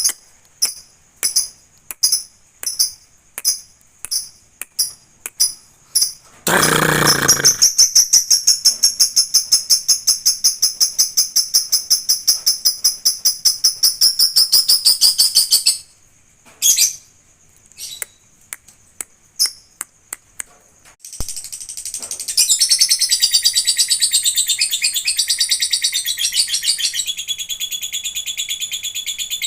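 Lovebird singing: sharp high chirps about twice a second, then a long rapid trill of about nine seconds, a pause with a few scattered chirps, and a second long trill in the last seven seconds.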